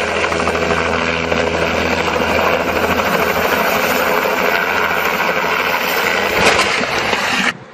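Helicopter running close by, a loud steady noise of rotor and engine with a constant humming tone. It cuts off abruptly near the end.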